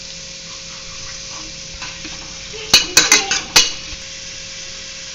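Sliced onions sizzling steadily in hot oil in a kadai. About halfway through, a spatula knocks and scrapes against the pan in a quick run of five or so sharp clacks as the onions are stirred.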